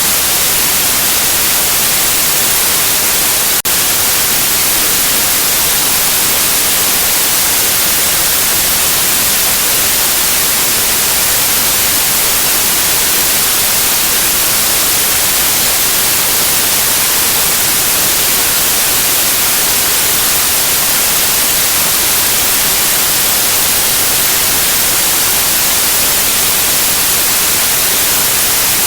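Steady white noise: a loud, even hiss with no change, with one brief tick about three and a half seconds in.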